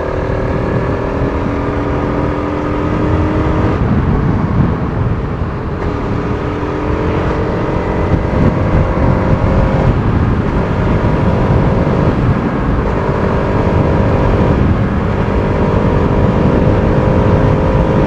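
Bajaj Pulsar RS200's single-cylinder engine pulling steadily while riding, its pitch climbing slowly and dropping back several times.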